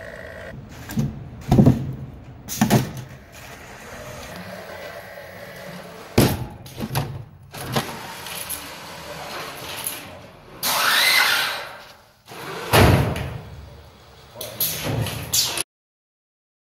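Robot prototype mechanisms being tested: a series of loud thumps and bangs with smaller clattering between them, and a rushing noise lasting about a second around ten seconds in. Near the end the sound cuts off suddenly.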